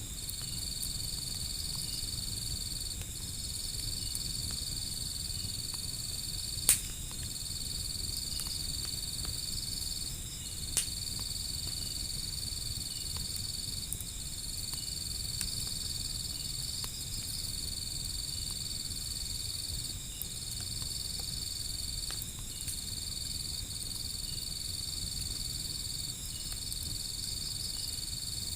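Insects trilling steadily at one high pitch, breaking off briefly every two to three seconds, over a low steady rumble of a wood fire, with two sharp pops from the burning wood, about seven seconds in and again four seconds later.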